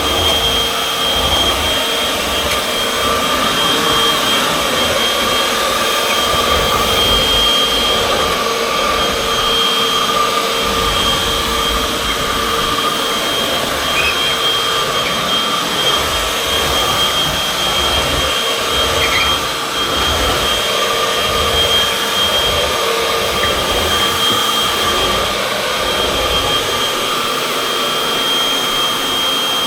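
Upright vacuum cleaner, model UH70605, running steadily with a high motor whine, while a low rumble rises and falls as it is pushed back and forth over the floor.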